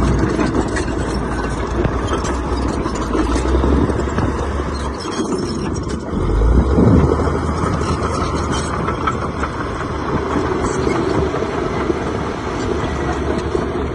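Heavy diesel earthmoving engine running steadily, with a louder swell about halfway through.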